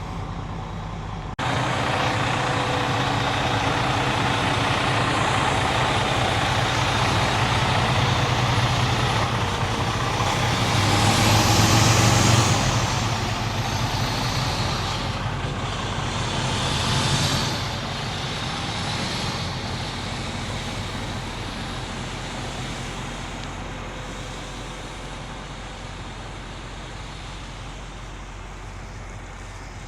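Truck running down the road with a steady drone. Near the middle it swells louder with a high whine that rises and then falls, and a smaller swell follows a few seconds later. The drone then slowly fades.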